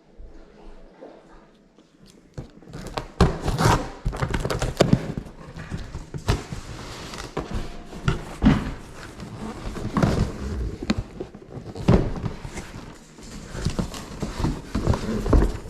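Unboxing and handling noise: a helmet box and its packaging being opened, with many irregular knocks and thuds over rustling, busiest from about two seconds in.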